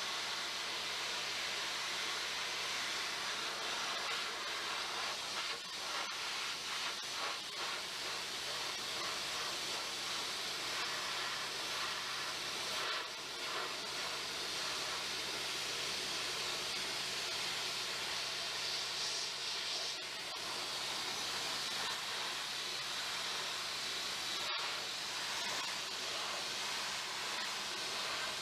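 Abrasive sandblasting of a truck frame: a steady hiss of compressed air and grit from the blast nozzle, with a faint steady low hum underneath. The hiss cuts out for an instant about three-quarters of the way through.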